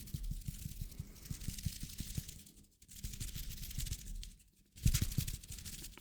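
Close-miked hand sounds for ASMR: rapid, crackly rubbing and rustling of hands, broken by two brief pauses.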